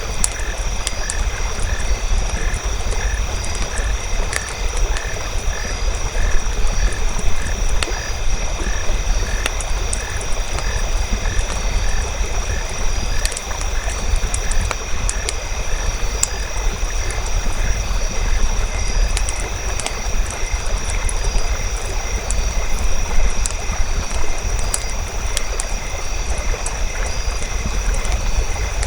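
Nature ambience: a campfire crackling with scattered sharp pops over a low rumble, while frogs croak in an even rhythm of about two calls a second through the first half. A steady high-pitched drone runs underneath.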